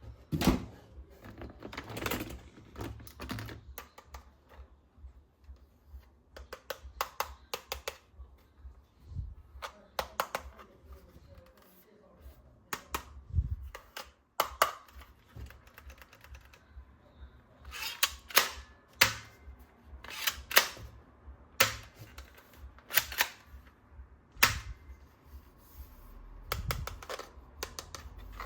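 Hard plastic toy guns being handled and worked, giving irregular clicks and snaps. In the second half comes a run of sharper, louder clicks, about one a second.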